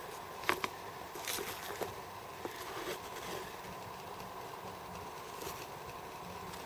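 Quiet steady background hum with a few light clicks and rustles of handling, most of them in the first three seconds and one more past the middle.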